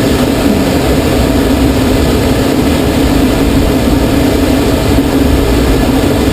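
Loud, steady rush of air streaming past a glider's cockpit and canopy at high speed during a steep banked turn.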